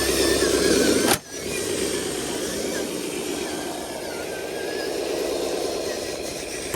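Heavy truck's diesel engine running, with the sound dropping out sharply for a moment about a second in.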